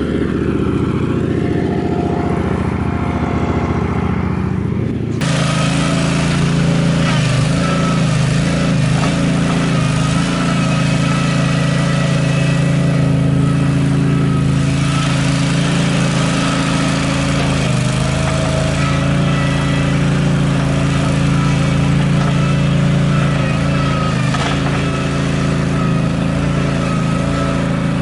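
Toro Dingo compact utility loader's engine running steadily. About five seconds in, the sound turns abruptly louder and noisier, with a hiss over the engine hum.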